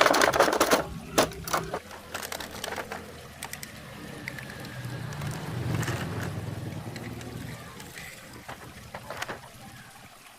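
Toys and packaging being handled: a loud burst of crinkling and clicks in the first two seconds, then a low hum that swells and fades around the middle, with scattered clicks.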